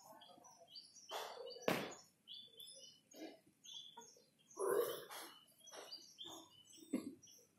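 Small birds chirping in short, repeated high notes. A sharp knock comes a couple of seconds in, and a louder muffled thud-like sound near the middle.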